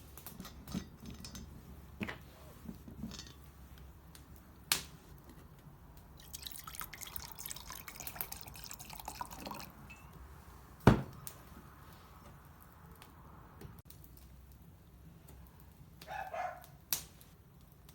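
Wood fire crackling in a fireplace: scattered sharp pops and clicks, with a denser spell of crackle in the middle and one louder knock about eleven seconds in.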